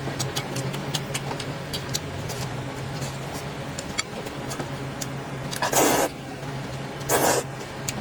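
Two short, loud slurps of sweet potato vermicelli, about a second apart near the end, over many small mouth and chewing clicks and a steady low hum.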